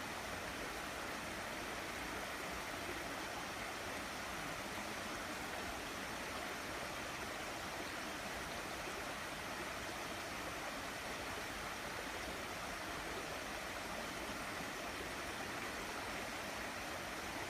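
Small valley stream flowing, a steady, even rush of running water.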